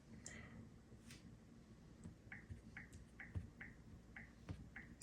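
Faint, short key-press clicks from a smart fridge's touchscreen keyboard as an item is typed, coming about two a second from about two seconds in.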